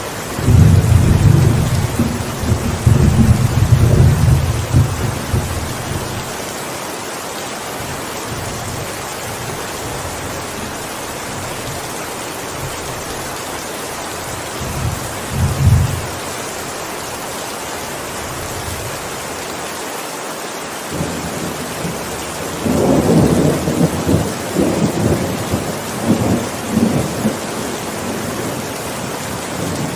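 Steady heavy rain with rolling thunder. A long, loud rumble comes in the first few seconds, a short one about halfway, and another rolls for several seconds near the end.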